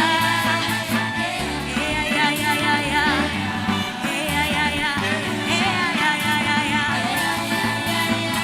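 A live band playing with singing voices, sustained bass notes under wavering, held vocal lines.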